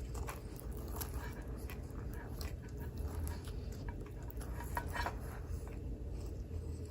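Close-miked chewing of pizza: wet mouth clicks and smacks over a steady low rumble, with breathing.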